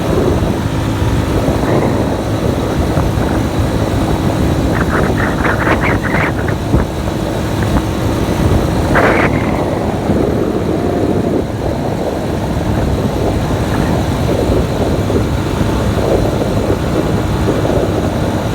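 Motorcycle riding on the road: steady wind rush over the microphone mixed with engine and road noise, with a few brief higher-pitched sounds about five and nine seconds in.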